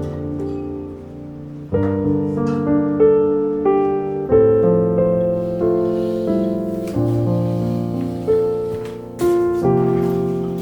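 Slow, soft piano music: chords and single notes struck about once a second, each ringing and fading away.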